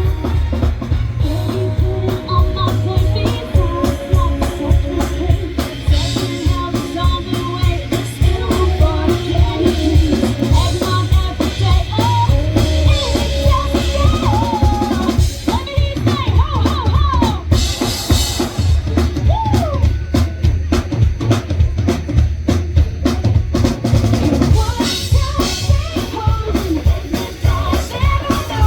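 Live band music with a drum kit keeping a steady beat under a wavering melody line.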